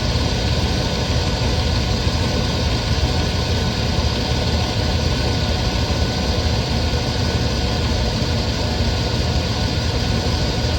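1997 GMC K1500 pickup's 5.7-litre V8 idling steadily.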